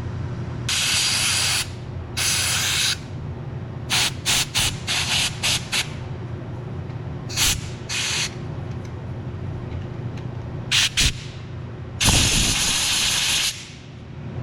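Compressed-air blow gun fired in bursts through a part of the pressure washer's burner to blow out dirt: two blasts of about a second, a quick string of short blasts, a few more, and a longer blast of about a second and a half near the end. A steady low hum runs underneath.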